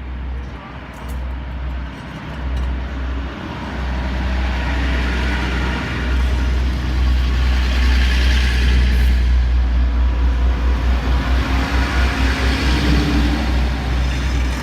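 NSW TrainLink Xplorer diesel railcar set pulling out of the platform, its diesel engines running and the sound swelling as it gets under way, with a fast rhythmic pulsing in the second half.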